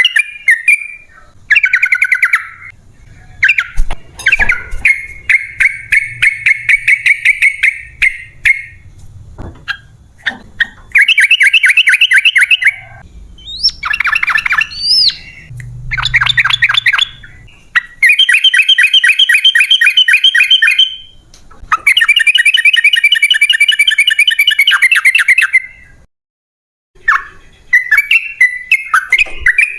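Yellow-vented bulbul (trucukan) song: loud bursts of fast, rolling repeated chattering notes, each lasting a few seconds, separated by short pauses.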